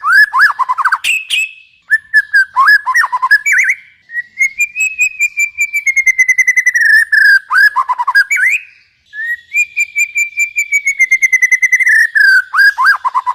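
Songbird song from a masteran recording: long, fast trills of repeated whistled notes that slowly fall in pitch, each phrase ending in a few lower down-sweeping notes, with brief pauses between phrases.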